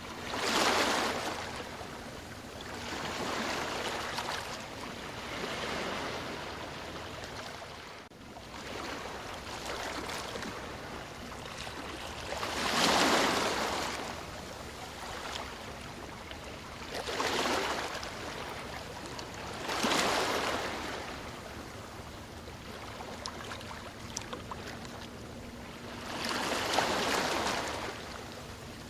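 Ocean waves breaking and washing onto a shore, about seven irregular swells of hiss that rise and fall back, the strongest near the start and about halfway through.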